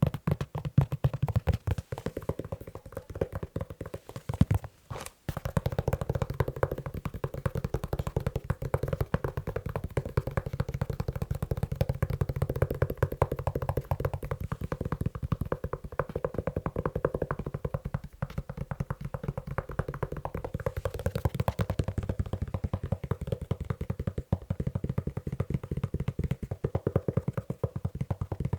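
Fingers tapping fast on a leather shoe, a dense run of quick taps with a short break about five seconds in.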